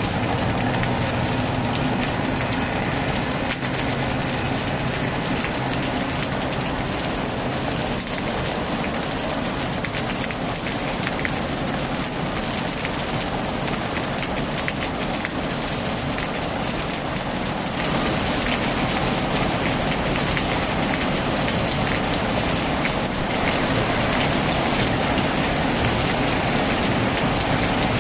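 Heavy rain drumming steadily on a tin roof, with a low hum that fades out in the first few seconds. The rain grows louder about two-thirds of the way in.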